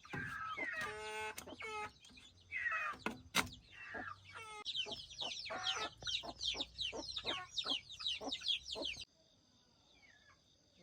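Chickens clucking and squawking, with a dense run of rapid, high, falling calls in the middle. The sound cuts off abruptly about nine seconds in.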